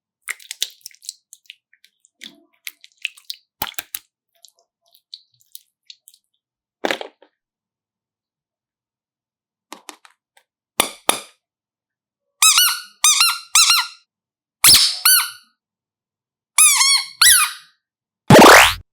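Scattered small clicks and crackles, then several groups of short, high squeaks. Near the end comes one loud squeal that rises quickly in pitch.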